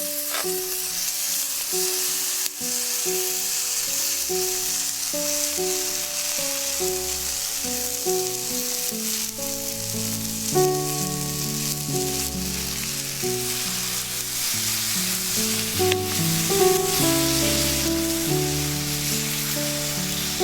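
Food sizzling steadily in a pan over a campfire, a continuous frying hiss, under background music with a simple repeating melody that a bass line joins about halfway through.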